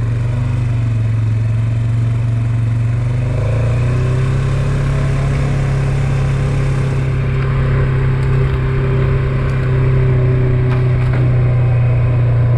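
Polaris Sportsman 570 ATV's single-cylinder engine running steadily while being ridden, its pitch stepping up a little about three and a half seconds in.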